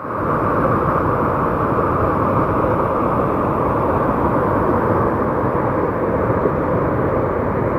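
Steady rushing roar of whitewater creek rapids, with little treble.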